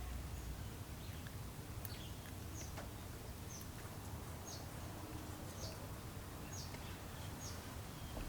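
A small bird chirping faintly outside, one short high falling note about once a second, over a low steady hum, with a few faint clicks.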